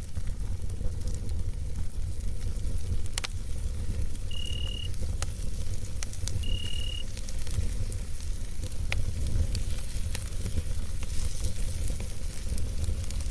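Campfire burning: a steady low rumble with scattered crackles and pops. Two short high-pitched chirps come about four and six and a half seconds in.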